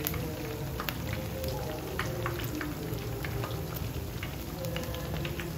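Akara bean fritters deep-frying in hot oil: a steady sizzle with many small, irregular crackles and pops.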